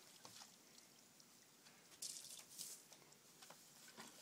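Mostly near silence, with a faint short splash of thrown water about two seconds in and a smaller one just after.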